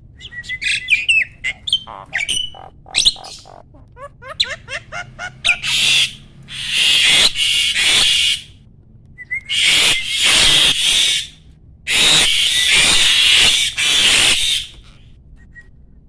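Male jalak (Asian starling) singing: a quick run of whistles and chirps, then three long, harsh rasping calls. This is the full song of a mature male in breeding condition.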